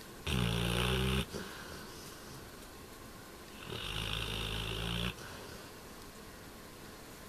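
Labrador retriever snoring in its sleep: two snores, a loud one about a second long near the start and a slightly softer, longer one about four seconds in, with quiet breathing between.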